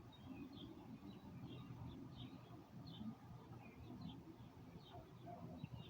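Faint, short, high chirps from a small bird, repeated irregularly about twice a second over low background noise.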